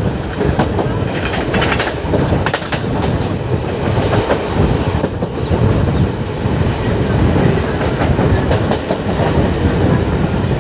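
Passenger train running at speed, its coach wheels clattering over the rail joints with a steady low rumble and irregular sharp clicks.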